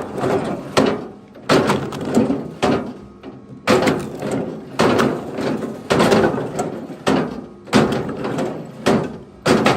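Pieces of firewood thrown down one after another, a loud wooden clunk and clatter roughly once a second.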